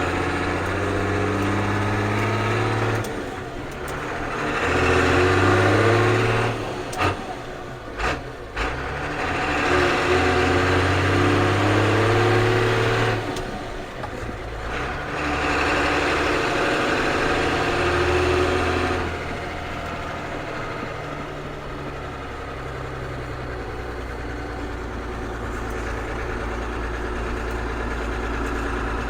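Ford CF7000 truck's 6.6-litre Brazil diesel engine pulling away and revving up through the gears. The engine note climbs and drops at each shift, four times in the first twenty seconds, with a couple of sharp knocks around the second shift. It then settles to a steadier, lower drone.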